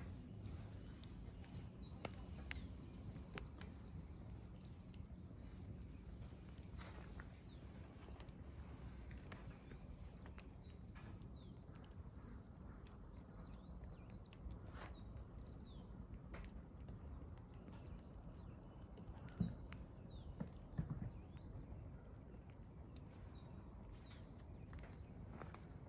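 Wood fire crackling, with irregular sharp snaps and a couple of louder pops about two-thirds of the way through, over a low steady rumble. Small birds chirp faintly in the middle stretch.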